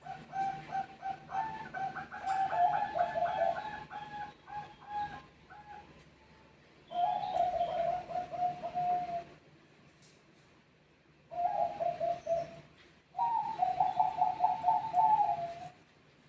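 Zebra doves (Bangkok perkutut) cooing in rapid staccato phrases, several birds answering one another. Their calls overlap for the first five seconds, then come three more phrases with short pauses between them.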